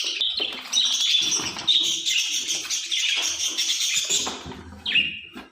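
A group of pet parrots chirping and chattering together in a dense, high-pitched stream. It thins out after about four seconds to a few single calls.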